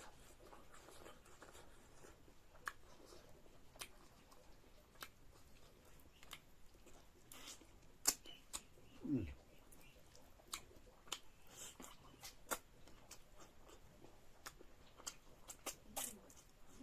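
Quiet eating sounds: scattered small clicks and smacks of chewing, with one short sound falling in pitch about nine seconds in.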